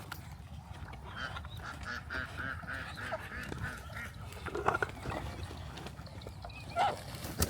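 Ducks calling: a quick run of about ten short, even calls, three or four a second, then a couple of louder single sounds, the loudest near the end.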